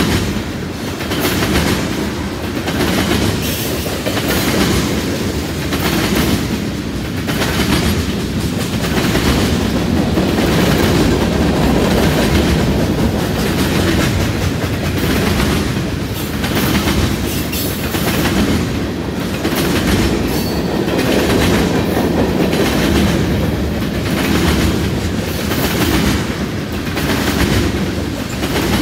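Long freight train of tank cars rolling past at close range: a steady low rumble of steel wheels on the rails, with clickety-clack roughly once a second as each car's wheel sets pass.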